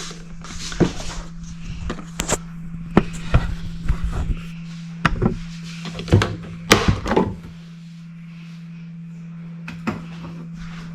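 Plastic parts of a Levoit 4L humidifier being opened and handled: a string of knocks, clunks and clicks for about seven seconds, then only a few, over a steady low hum.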